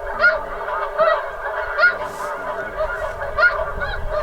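Snow geese calling: a dense, unbroken chorus of many high honks, with louder single honks standing out about once a second.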